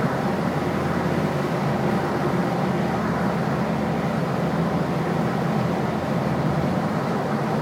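Ford Focus ST with a decat exhaust driving at a steady pace, a steady low exhaust drone mixed with road noise, with no revving or pops.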